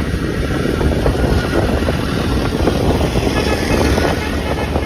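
Motorcycle running while being ridden, with a steady low rumble of wind buffeting the microphone.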